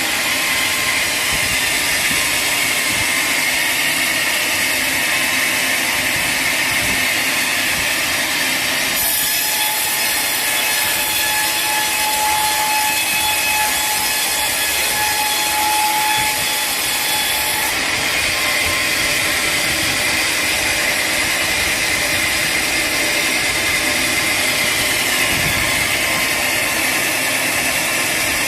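Sawmill saw cutting through a teak log, a loud, steady, high-pitched sawing noise. The sound changes abruptly about a third of the way in and changes back about two thirds of the way through.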